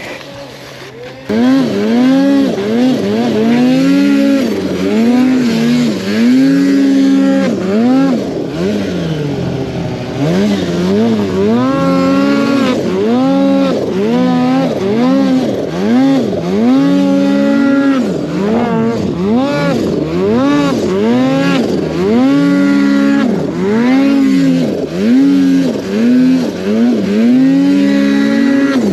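Snowmobile engine being ridden hard in deep snow, revved up and down over and over as the throttle is worked, starting about a second in.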